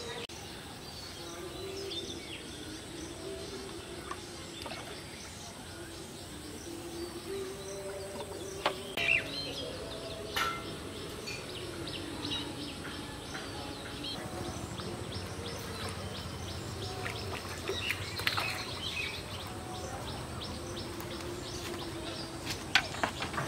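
Birds chirping and calling on and off over a steady outdoor background, with a few sharp clicks about nine and ten seconds in and again near the end.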